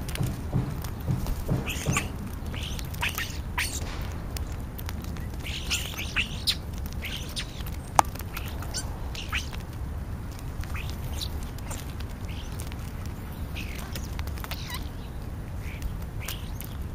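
European starlings calling with short, scattered squawks and chirps, over a steady low hum. A single sharp click comes about eight seconds in.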